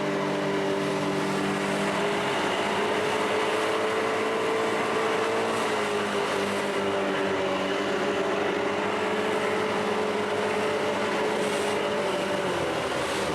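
Outboard motor of a Zodiac inflatable boat running at steady speed: an even engine hum over the hiss of wind and water. The pitch drops slightly near the end as the throttle eases.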